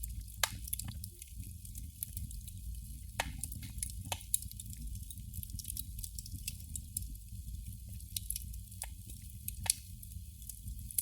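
Candle flame crackling: scattered faint ticks and a handful of sharper pops at irregular moments, over a steady low rumble.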